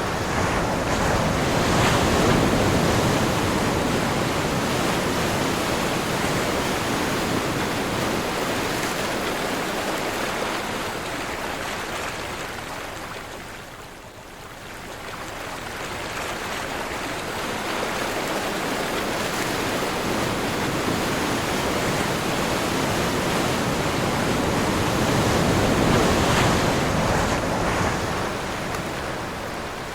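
Ocean surf on a windy day: waves breaking and washing in with a steady rushing noise. The surf swells loudest about two seconds in and again near the end, with a lull around the middle.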